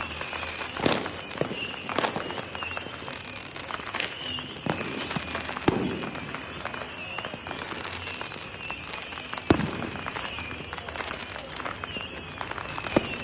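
Fireworks going off: irregular sharp bangs and crackles over a steady background of more distant pops, with the loudest blasts about a second in, near the middle and about three seconds before the end. A faint wavering high tone repeats behind them.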